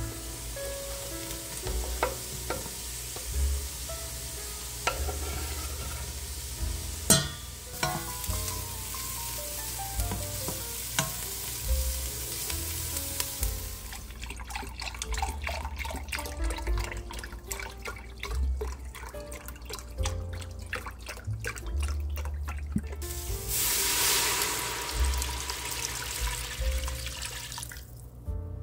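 Diced onion and garlic sizzling in melted butter in a stainless steel pot, with background music throughout. In the second half, broth being poured, the pouring loudest near the end.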